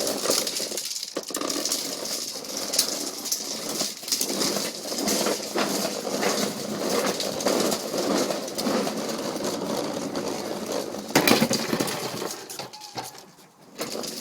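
Plastic toy dump truck rattling and clattering as it is pushed and played with, with many small clicks and a louder knock about eleven seconds in.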